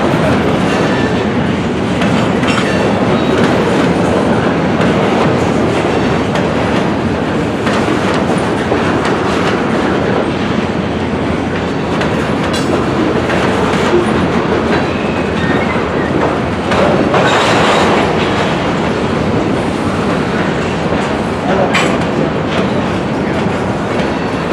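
Freight cars rolling along the yard track in a steady rumble, with a few sharp wheel clicks.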